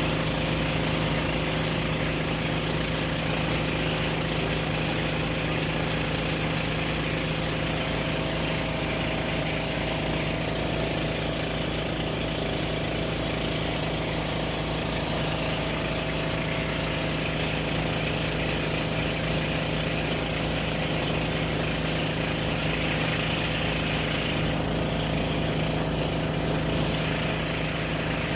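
A boat's engine running steadily at a constant speed, with a constant hiss over it.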